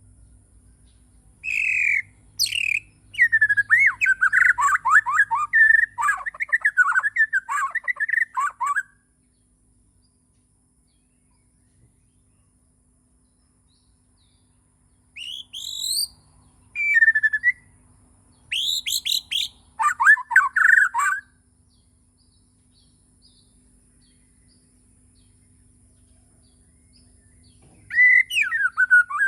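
Bornean white-rumped shama (murai batu) singing: loud bursts of rapid, varied whistled phrases sliding up and down in pitch. There are three bouts, with pauses of several seconds between them, and a faint steady high tone and low hum underneath.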